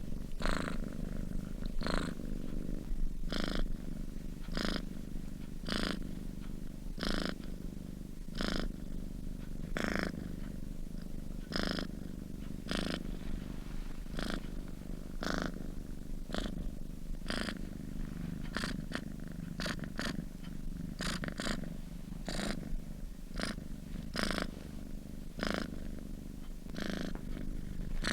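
A sleeping domestic cat purring: a steady low rumble, with a louder pulse about every second and a half.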